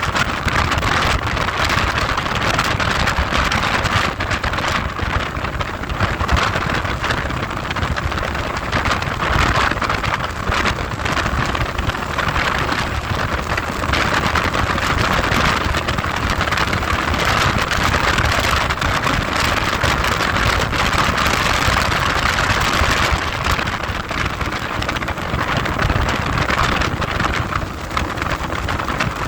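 Heavy wind noise on the microphone of a moving motorcycle: a steady, crackling rush over a low rumble.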